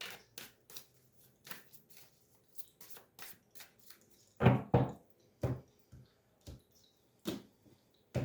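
Shuffling and cutting a Gypsy (Lenormand) card deck by hand: a string of short, irregular card flicks and taps, with several louder taps from about halfway on.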